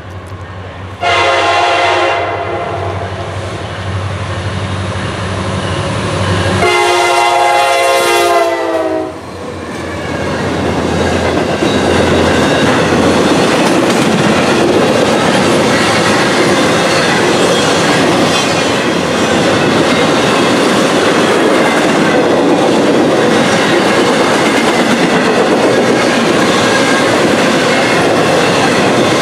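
Nathan K5LA air horn on a Norfolk Southern SD70ACu diesel locomotive sounding two blasts over the engines' low drone: a short one about a second in, then a longer one that drops in pitch at its end as the locomotive passes. After that comes the steady rumble and clickety-clack of intermodal well cars rolling by.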